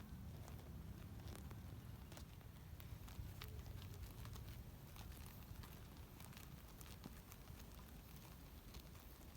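Sika deer grazing: faint, irregular clicks and crunches of grass being torn and chewed, over a low steady rumble.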